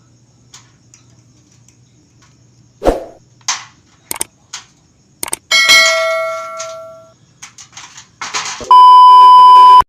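A few sharp knocks, then a loud metallic clang that rings out and fades over about a second and a half, followed near the end by a loud, steady electronic beep held for about a second.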